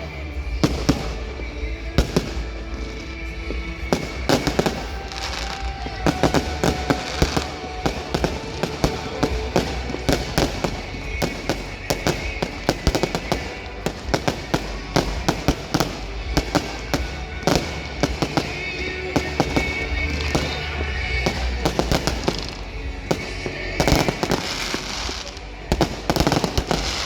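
Fireworks display going off continuously: a rapid, irregular run of sharp bangs and crackles, with denser volleys near the end.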